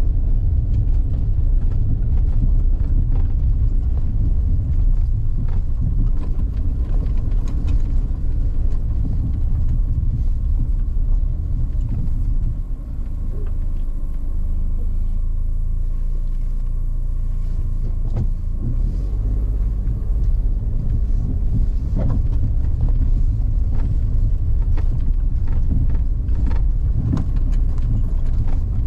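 Car driving: a steady low rumble of engine and tyres, with scattered clicks and knocks. About halfway through it dips briefly, then runs smoother for a few seconds.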